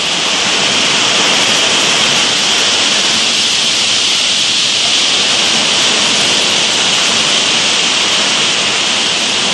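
Severe thunderstorm: strong wind and heavy rain making a loud, steady rushing hiss.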